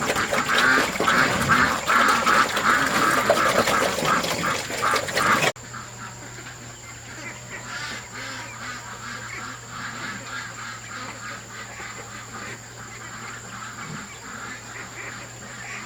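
Ducks quacking in a loud, dense chorus. About five and a half seconds in, the sound cuts abruptly to a quieter passage where the quacking goes on fainter over a low steady hum.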